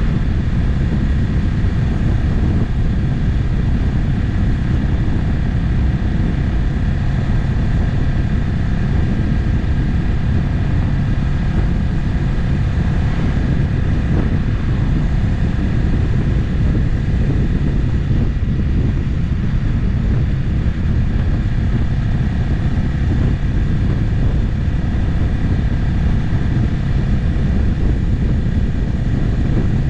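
Motorcycle running at a steady cruise on the open road, with engine drone, wind and road rumble, holding an even level with no gear changes or revving.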